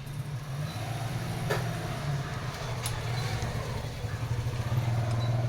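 Bajaj CT 100's single-cylinder four-stroke engine idling steadily, with a fast, even pulse, growing a little louder near the end. Two short clicks about 1.5 and 3 seconds in.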